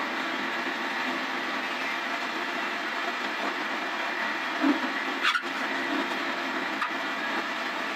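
Woodworking lathe running steadily as a wooden cot leg is turned, with a few short knocks or scrapes of tool on wood around the middle.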